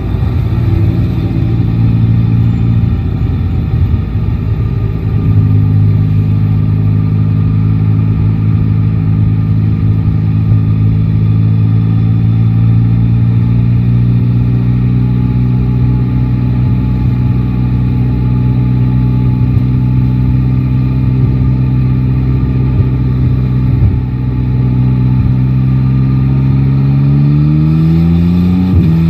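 Yamaha Tracer 9 GT's 890 cc inline-three engine running under way, its pitch sinking slowly for most of the stretch, then rising sharply near the end as the bike accelerates.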